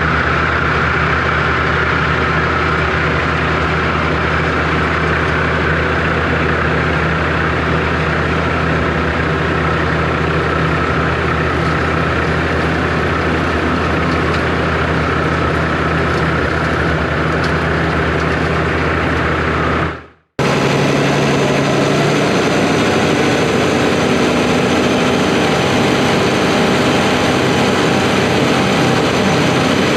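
Tractor engine running steadily, with a steady high whine over the low engine hum. About two-thirds of the way through it cuts off sharply and a similar steady engine sound takes over, with less low hum.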